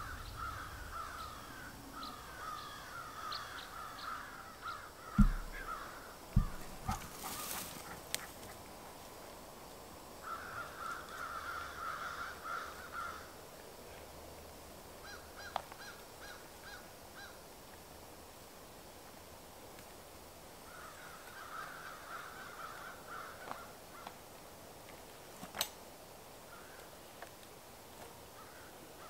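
Birds calling in several bouts of rapid repeated calls lasting a few seconds each. A few heavy thumps come about five to seven seconds in, the loudest sounds here.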